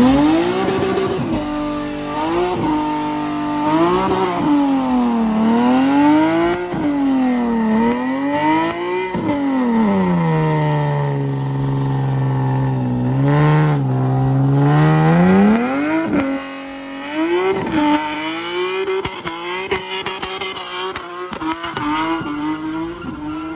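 Car engine revving hard during a burnout. The pitch climbs and falls every second or two and is held lower for a few seconds in the middle, over a steady hiss of spinning, squealing tyres.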